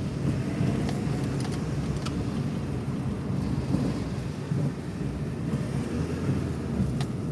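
Renault Sandero on the move: a steady low rumble with a few sharp knocks, about a second in, twice more within the next second, and again near the end. The knocks are the front suspension noise the car was brought in for.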